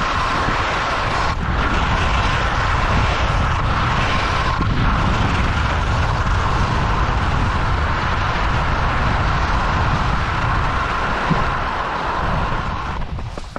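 Loud rushing wind noise buffeting the camera microphone: a heavy, steady rumble with a hiss over it, easing off near the end.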